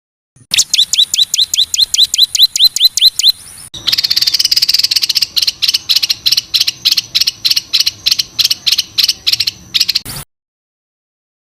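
Recorded songbird song: a fast run of short downward-sweeping whistled notes, about nine a second. It switches abruptly to a harsher, rattling series of rapid repeated strokes, then cuts off suddenly. These are the rough, rapid 'shooting' phrases used to tutor competition songbirds.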